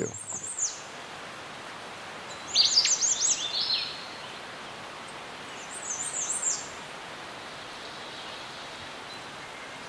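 A small bird chirping in three quick runs of high, falling notes: a short one at the start, the loudest a couple of seconds in, and a fainter one about six seconds in. A steady outdoor hiss lies underneath.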